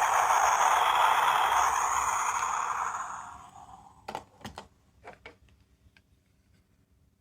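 Sound-making capsule toy playing back a loud, noisy sound effect with a few steady tones through it, fading out about three seconds in, followed by several light clicks.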